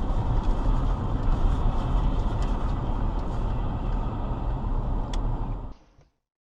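Steady vehicle and road noise heavy in low rumble, as picked up by a dashcam microphone, with one sharp click about five seconds in. The sound cuts off abruptly near the end into silence.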